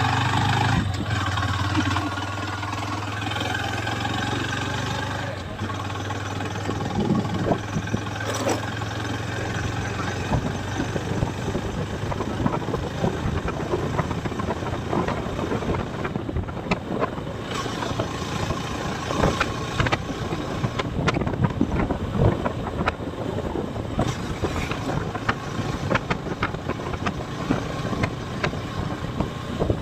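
Motorcycle engine running while riding, with wind buffeting the microphone; a steady low engine hum in the first few seconds gives way to rough, crackling wind noise.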